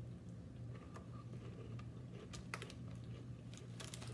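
Faint crunching of crisp fried gram-flour snack sticks (bhujia sev) being chewed, a handful of short scattered crunches over a steady low hum.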